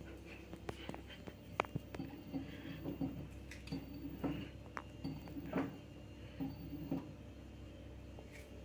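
LG F2T9GW9P front-loading washing machine running its spin-only cycle: a faint, steady motor hum with irregular light clicks and knocks from the drum.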